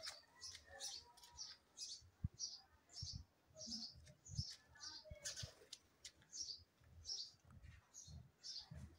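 Faint, steady chirping of a small bird, about two to three short high chirps a second, over soft low thumps of footsteps.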